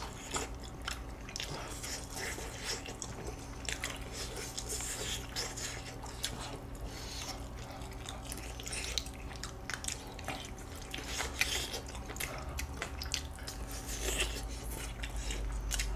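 Close-miked chewing and wet mouth sounds of people eating pieces of soy-braised chicken (jjimdak), with many small scattered clicks and smacks.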